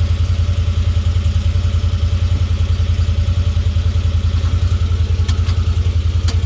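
Small farm vehicle's engine running steadily at idle with a fast even throb, with a few light clicks about a second before the end.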